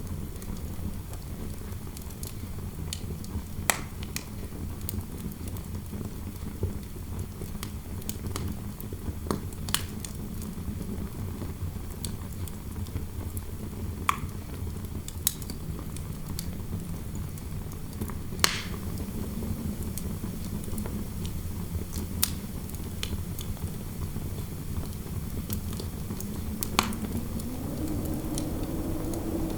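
Fire crackling with scattered sharp pops over a steady low rumble of wind blowing through a room; near the end the wind rises into a howl.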